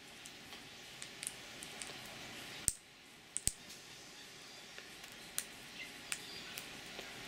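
A bird feeding, pecking at and cracking seed with its beak: irregular sharp clicks and taps, a few a second, with two louder knocks about three and three and a half seconds in.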